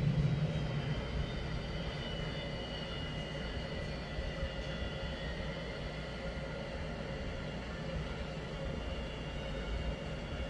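Boeing 757-200 jet engines running: a steady drone with a faint high whine above it. A louder low rumble fades away in the first second.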